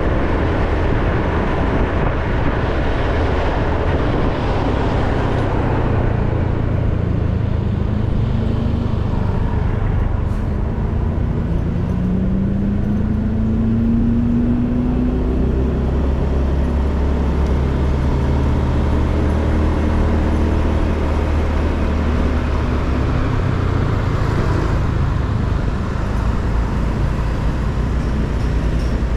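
Motorbike engine running while riding along a road, with wind and road noise; an engine tone rises in pitch about halfway through.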